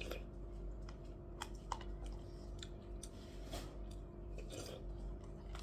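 A person chewing food, with scattered small clicks over a steady low hum.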